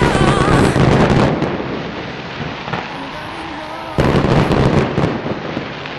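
Aerial fireworks bursting and crackling in a dense display, with a sudden loud salvo about four seconds in that then dies away.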